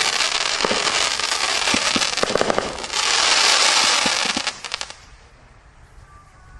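'Fishes & Seahorses' firework cake firing: dense crackling and hissing with many sharp pops, swelling to a loud hiss about three seconds in, then dying away about five seconds in as the cake finishes.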